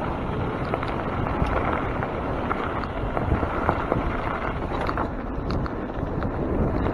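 Mountain bike rolling down a wet dirt trail: a steady rumble of tyres and wind on the microphone, with many small clicks and rattles from the bike over the rough ground.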